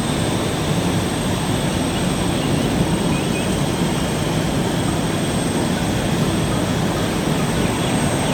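Heavy machine engine running steadily: a loud, dense rumble with no clear pitch that starts abruptly.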